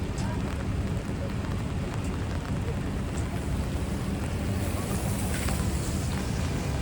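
Rainy city street ambience: a steady wash of traffic and rain on wet pavement, with a brighter hiss rising about five seconds in.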